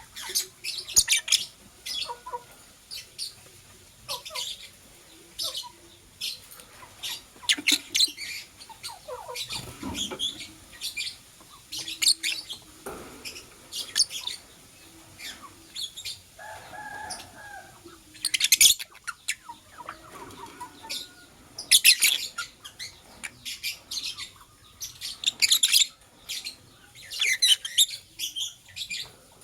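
Lovebirds chirping in repeated bursts of rapid, sharp, high-pitched chirps, with quieter lower calls in between.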